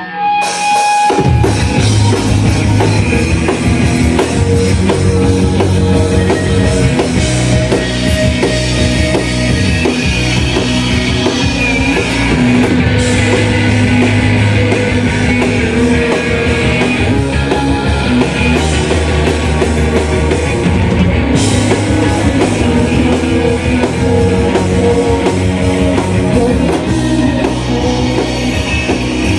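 A live shoegaze rock band playing loud: dense distorted electric guitars over bass and a full drum kit, kicking in about a second in after a brief lone guitar note.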